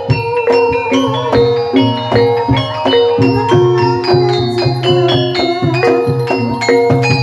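Ebeg horse-dance accompaniment music played in a steady rhythm: struck, ringing mallet-percussion notes over held tones and drum strokes.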